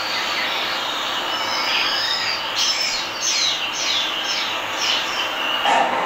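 A bird calling: a run of high, falling whistled notes, about two or three a second, over a steady hiss.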